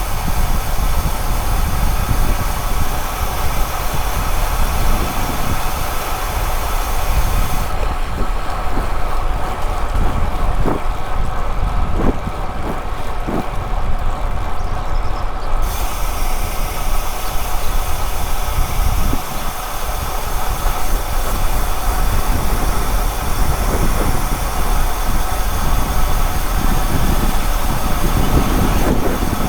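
Steady wind rushing over the microphone, with road noise, while riding a bicycle at speed.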